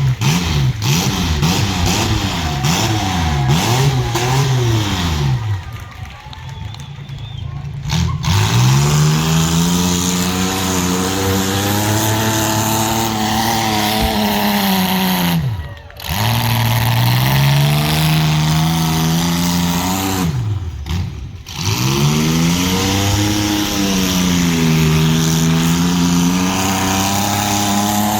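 Demolition derby compact car's engine revving hard in repeated surges, its pitch climbing and falling again and again, with the revs dropping away sharply a few times.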